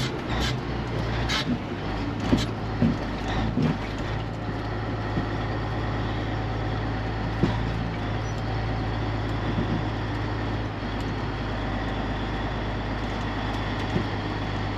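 Truck engine running steadily at low speed, a constant low hum heard from inside the cab. A few knocks and rattles come in the first few seconds.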